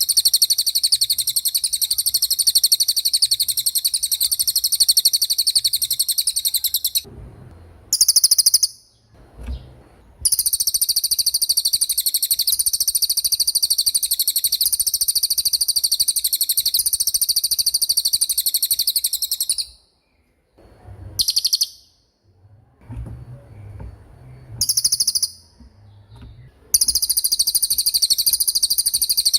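Small songbird singing a very fast, high-pitched trill in long unbroken runs. It stops about seven seconds in, gives a short burst, resumes about ten seconds in, then falls silent at about twenty seconds with two brief bursts before starting again near the end.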